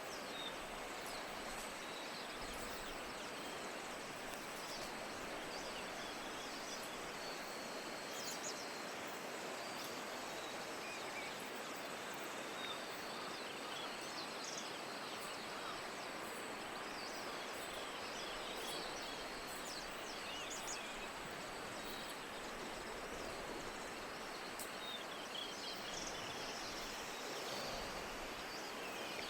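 Steady hiss of falling rain, with scattered faint, high, short chirps over it.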